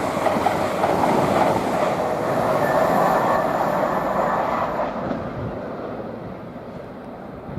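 Class 802 bi-mode train passing at speed, a steady noise of wheels on rail that dies away about five seconds in as the train moves off.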